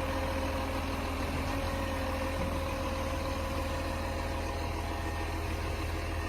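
Garbage truck engine idling steadily.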